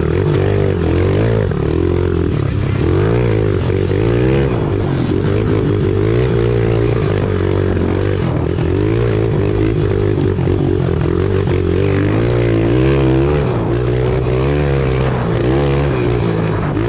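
Pit bike engine running under load as it is ridden, its pitch rising and falling continuously with the throttle.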